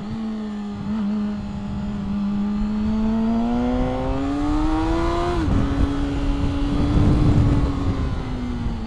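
Yamaha R6's inline-four engine pulling up through the revs, its pitch climbing steadily until an upshift about five and a half seconds in drops it. It then runs steady and eases off slightly near the end, with wind rushing on the microphone.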